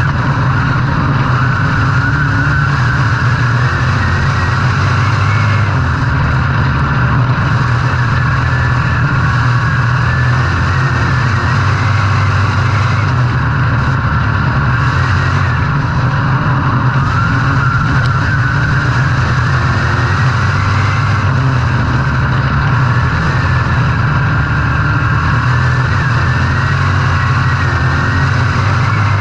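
Dirt-track race car engine running hard at steady high revs, the pitch rising and falling only slightly.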